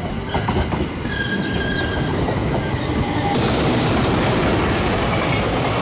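Trains at a station: a high whine or squeal from an electric train around a second in, then from about halfway a freight train hauled by an electric locomotive runs past close by with a loud, steady rush and rumble of wheels on rail.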